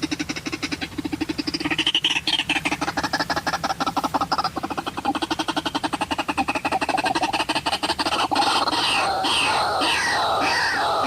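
White-breasted waterhen calling: a rapid, rattling croak, then from about eight seconds in a louder call phrase repeated about twice a second.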